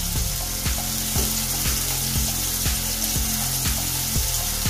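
Onions, tomato and ginger-garlic paste sizzling in hot ghee in a steel pot, a steady frying hiss. Under it runs background music with an even beat of about two a second.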